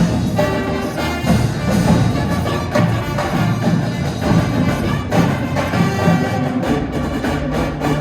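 Indoor wind band with percussion playing: sustained brass and woodwind chords over frequent drum and percussion hits.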